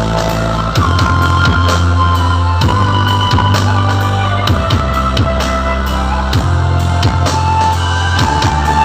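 Loud music with a driving drum beat and heavy, sustained bass notes, played through a large sound system.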